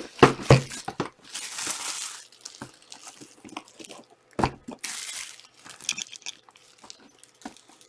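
Trading-card pack wrappers crinkling and tearing as packs are opened, with irregular sharp clicks and snaps from cards and packs being handled.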